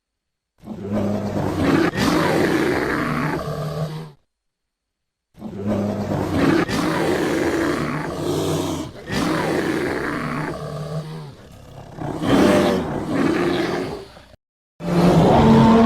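Sound-effect roars of a giant prehistoric bear creature: a deep, rough roar lasting about three and a half seconds, then after a short silence a run of several more roars, with another one starting near the end.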